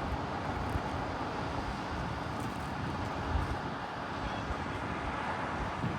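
Jet engines of an Airbus A320 running, a steady even rush of noise with an uneven low rumble beneath it.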